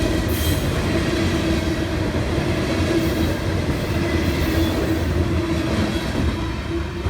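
Freight train cars rolling past, with a steady rumble of steel wheels on the rails.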